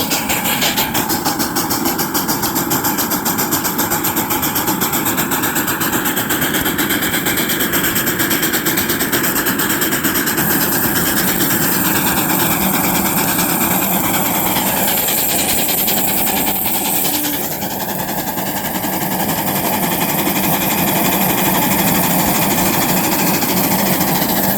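Live-steam miniature 4-6-0 Ten Wheeler locomotive working hard as it pulls a heavy train up a 3% grade, its exhaust chuffing in rapid, even beats.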